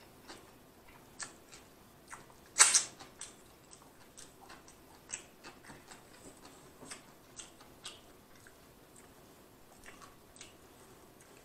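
Faint, scattered mouth clicks and chewing sounds of a person eating close to the microphone, with one louder smack about two and a half seconds in.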